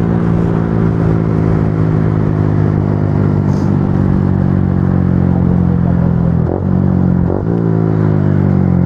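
Motorcycle engine running steadily at riding speed, with two short breaks in its note about six and a half and seven and a half seconds in, then its pitch easing down slightly near the end.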